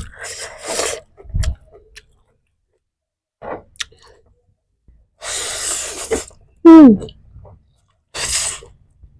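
A person eating, with several short, loud breathy bursts and, about seven seconds in, one loud voiced cry that falls in pitch.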